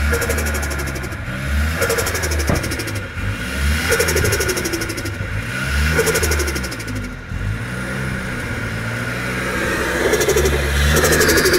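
Nissan 200SX S13's turbocharged SR20DET four-cylinder revved in about five sharp blips, each lift-off followed by a rapid fluttering chatter of the turbo's compressor surging.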